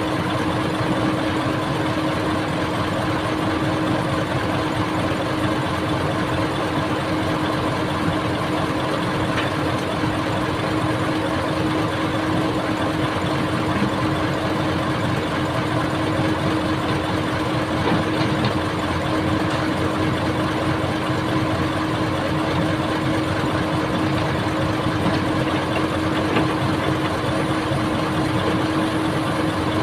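Diesel engine of an old excavator running steadily at an even speed, with a constant hum and no revving.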